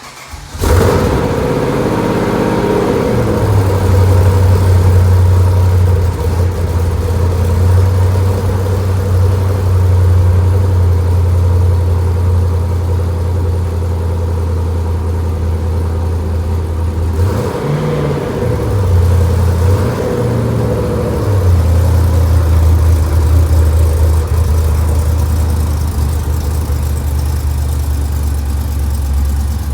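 A car engine running at a steady idle, starting abruptly just after the opening, with a few brief changes in pitch about two thirds of the way through.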